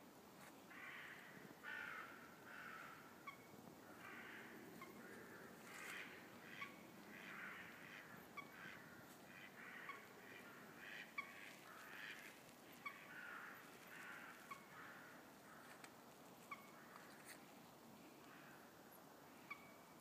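Faint bird calls: a dense run of harsh, repeated calls mixed with short sharp chirps, thinning to a few scattered chirps over the last few seconds.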